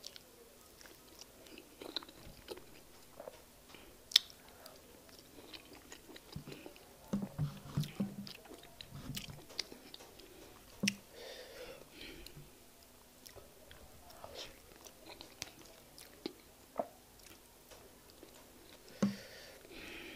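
Close-miked chewing and wet mouth sounds of someone eating fufu with egusi soup by hand: soft irregular smacks and clicks, with a few sharper clicks standing out.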